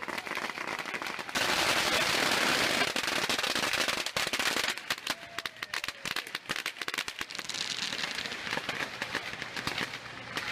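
Strings of firecrackers going off. About a second in they set into a dense, rapid crackle lasting some three seconds, which then thins into separate sharp pops and scattered crackling.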